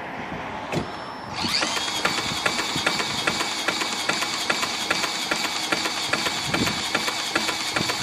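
Homemade replica of Henry Ford's 'kitchen sink' engine being spun over to start: a high steady whine comes up about a second and a half in and holds, with a regular tick about two and a half times a second.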